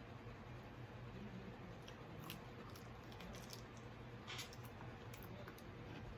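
A person chewing food quietly, with scattered small crunches and mouth clicks and a short cluster of crackles about four seconds in, over a steady low hum.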